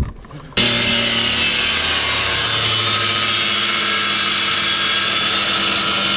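A loud power tool running steadily at an even pitch, starting abruptly about half a second in.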